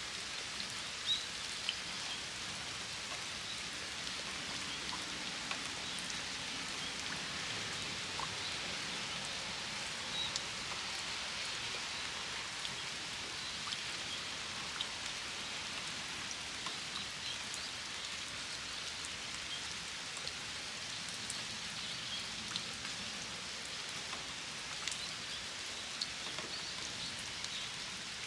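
Steady rain falling on a flower-filled water basin, an even hiss with many separate drops ticking sharply here and there.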